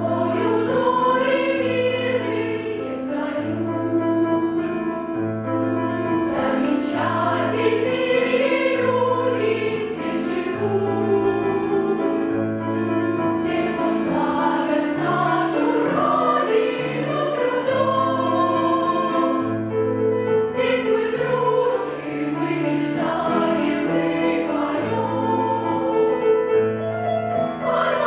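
Children's choir singing a song together with instrumental accompaniment. A steady bass note pulses about once a second under the voices.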